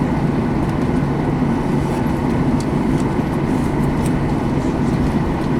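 Steady rumble of a Boeing 737-800's engines and airflow heard inside the passenger cabin.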